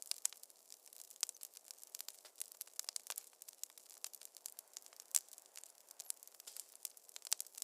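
Wood fire crackling in a fireplace: many irregular sharp pops and snaps over a faint hiss, the loudest pop about five seconds in.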